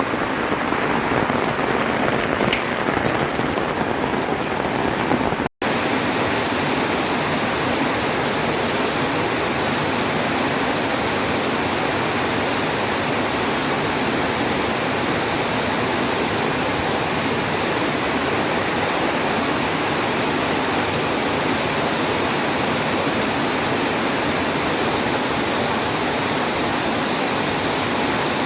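Heavy rain pouring steadily, a dense, even hiss. It cuts out for an instant about five and a half seconds in.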